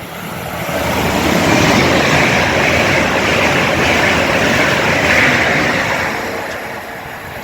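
Avanti West Coast Class 807 Hitachi electric train passing through at speed. Its rushing noise swells over the first second or so, holds, then fades away near the end.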